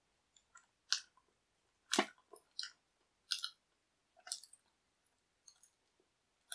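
A person chewing and biting pizza: short, wet mouth clicks and smacks roughly once a second, the loudest about two seconds in.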